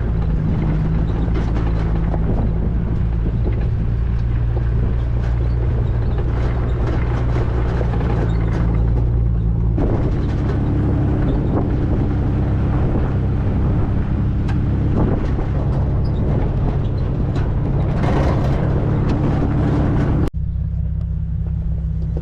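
A classic car's engine running steadily while driving off-road on a rough desert track, with tyre noise and scattered knocks and rattles over the bumps. The engine note shifts about ten seconds in, and the sound changes abruptly a couple of seconds before the end.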